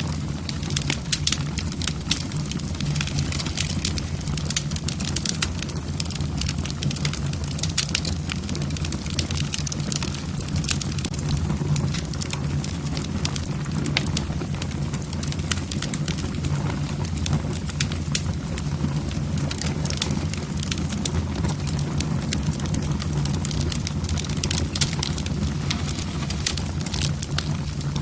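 Wood fire burning in a fireplace, with logs crackling and popping in many quick irregular snaps over a steady low rumble of the flames.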